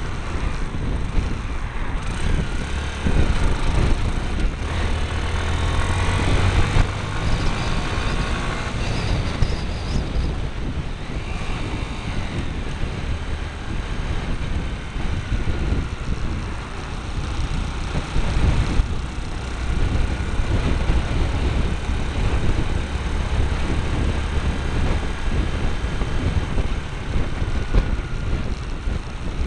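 Motorcycle engine running while the bike is ridden, heard from a camera fixed to the bike, with wind rushing over the microphone. The engine note rises and falls several times as the bike speeds up and eases off.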